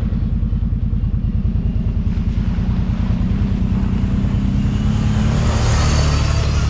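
Kawasaki Brute Force 750 ATV's V-twin engine running on the trail with a rapid, even exhaust pulse, getting somewhat louder near the end.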